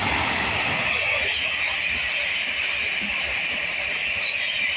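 A train passing through the station at speed, a steady loud rush of wheel and rail noise with a hiss.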